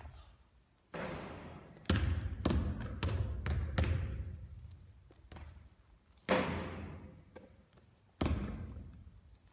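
A basketball bouncing on a hard court during shooting practice: a quick run of bounces about two to four seconds in, then single hard hits later on. Each impact is sharp and echoes as it dies away.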